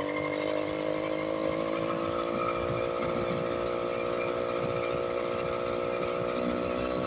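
Small engine of a motorized bicycle running while riding, its note rising slowly as it picks up speed, with wind rumbling on the microphone from about two seconds in.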